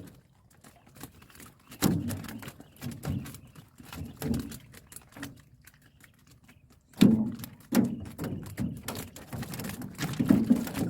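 Irregular knocks and thumps in a small boat as fish traps are handled and emptied: a few scattered knocks, then a louder thump about seven seconds in followed by a busier run of knocking.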